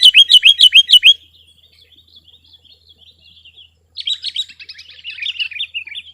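Sooty-headed bulbul (kutilang) singing: a loud, fast run of sharp repeated notes, about seven a second, that breaks off about a second in. Faint twittering follows, then another rapid run of notes from about four seconds in.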